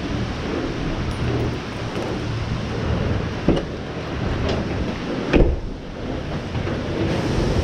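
Pressure washer spraying water against a fiberglass truck camper, a steady rushing hiss, with a few short knocks, the loudest about five seconds in.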